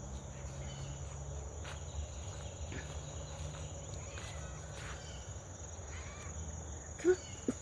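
Steady high-pitched insect chorus, like crickets, with a few faint bird chirps over a low outdoor rumble.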